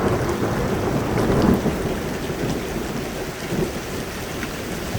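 Heavy downpour: rain pouring down hard in a dense, steady rush, easing slightly after about two seconds.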